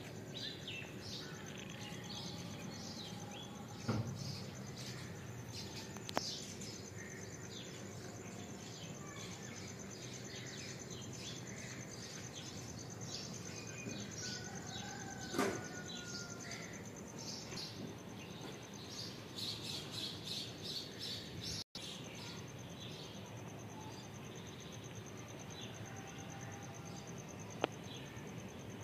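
Outdoor ambience of birds chirping over and over, with a steady high-pitched whine underneath. There is a quick run of chirps about two-thirds of the way in, and a few sharp knocks are scattered through.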